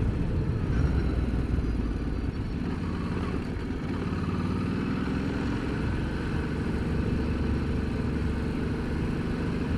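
Ducati Multistrada motorcycle engine running steadily while riding along a road.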